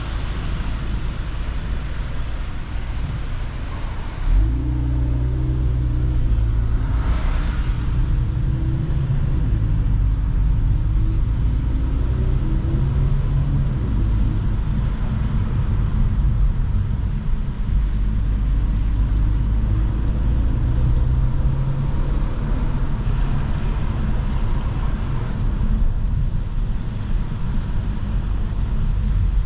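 Mercedes-AMG C43 engine and exhaust running while driving, with road noise. About four seconds in it suddenly gets louder as the engine pulls harder, then holds a steady drone whose pitch wavers slightly.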